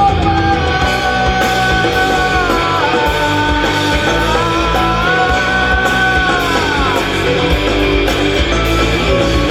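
Live rock band playing an instrumental passage: a lead electric guitar holds long, wavering notes over bass and drums, and they slide down about seven seconds in.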